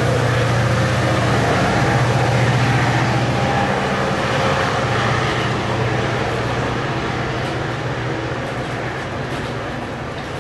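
VRE commuter train at a station platform: the diesel locomotive's engine runs with a steady low hum over rail and train noise, the whole sound slowly getting quieter.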